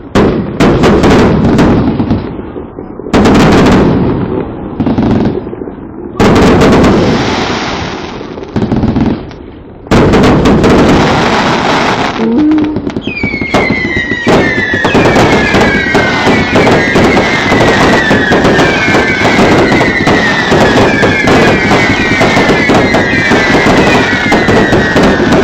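Fireworks display set off close by: loud bangs of shells bursting, then from about halfway a dense, continuous crackling barrage. From just past halfway, many whistling fireworks join in, each giving a falling whistle, one after another.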